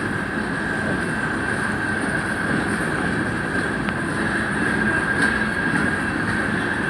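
Train rolling past: a steady rumble with a steady high-pitched whine over it.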